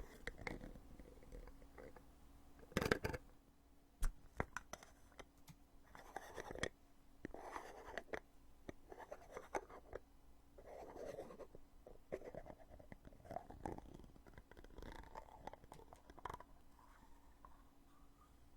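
Lid of a foundation container being opened and closed over and over. There are sharp clicks, the loudest about three and four seconds in, between short, softer scraping and rubbing sounds.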